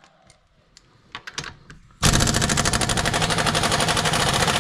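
A few faint clicks, then about two seconds in a machine starts abruptly and runs loudly with a fast, even hammering rattle.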